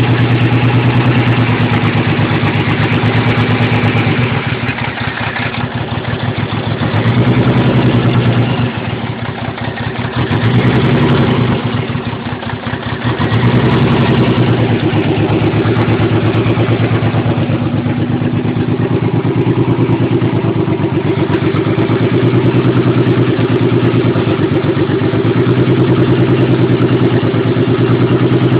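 Nissan 300ZX's V6 engine running rough, misfiring on one or two cylinders from bad fuel injectors and old injector clips. Its loudness dips a few times in the first half, then holds steady.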